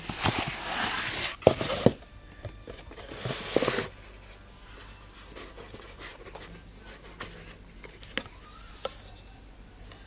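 Hands handling headphones and their packaging: two bursts of rustling and scraping in the first four seconds with a few sharp plastic clicks, then only occasional faint clicks.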